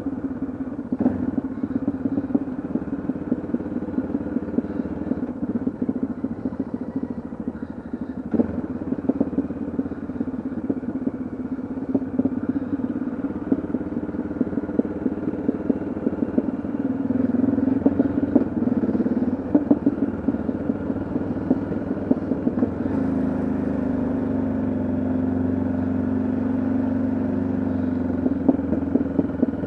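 Yamaha XT660Z Ténéré's single-cylinder engine running under way on the road. The engine note shifts a few times and settles into a steadier, deeper tone a little over two-thirds of the way in.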